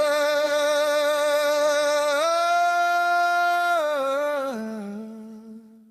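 A lone voice holding the song's closing note without words or accompaniment, with vibrato. It steps up a little about two seconds in, then steps down lower near the end and fades out.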